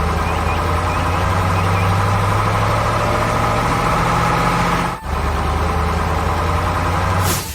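Heavy construction-vehicle engine running steadily at idle, with a brief break about five seconds in and a short burst of noise near the end.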